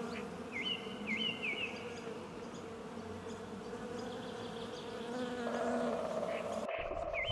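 A bee buzzing steadily. About five and a half seconds in, the buzz shifts to a higher pitch.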